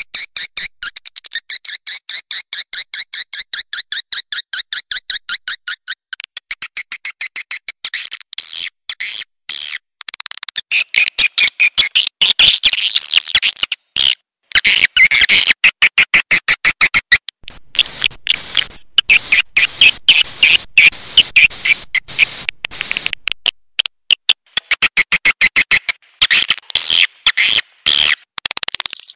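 Swiftlet call recording, the lure sound played to attract edible-nest swiftlets to a swiftlet house. It is a dense, high-pitched twittering of rapid chirps and clicks that changes pattern every few seconds, with brief breaks between segments.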